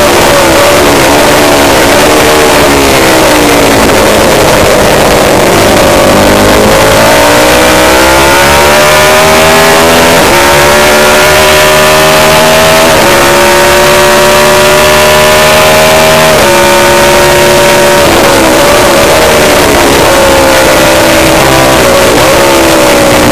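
Racing motorcycle engine at high revs. The pitch falls for the first few seconds as it slows, then climbs hard through the gears, dropping sharply at each of three upshifts, and falls again near the end.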